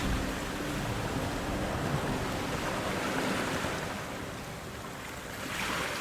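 Ocean surf washing steadily, with a wave swelling up near the end.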